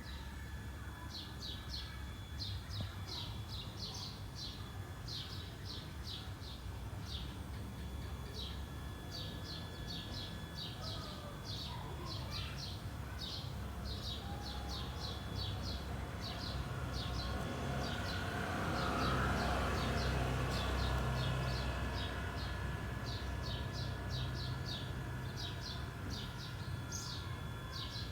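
Birds chirping, short high calls repeating several times a second over a low outdoor rumble. A swell of louder noise comes about two-thirds of the way through.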